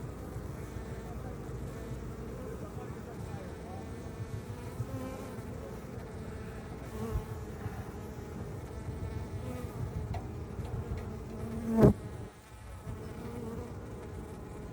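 Honeybees buzzing steadily around an open hive, a dense hum of many wings. A single sharp, loud knock just before the end.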